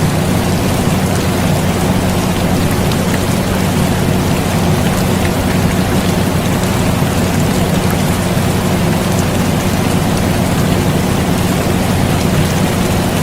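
Steady rain hiss mixed with the constant low hum of an air conditioner, unchanging throughout.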